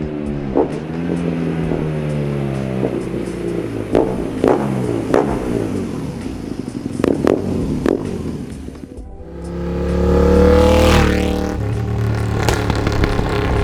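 Custom cafe racer motorcycle engine running and revving, its pitch rising and falling, with several sharp cracks in between. About nine seconds in the sound drops away, then the engine comes back loud and climbs in pitch as it accelerates.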